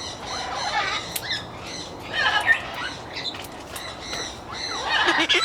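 Parrots squawking and calling in short, overlapping bursts, loudest about two and a half seconds in.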